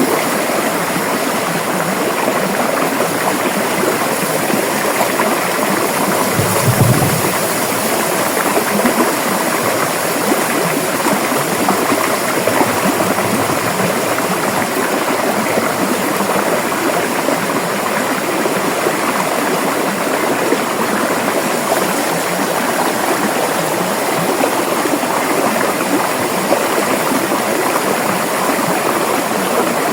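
River water rushing and splashing steadily. About seven seconds in there is a brief low thump.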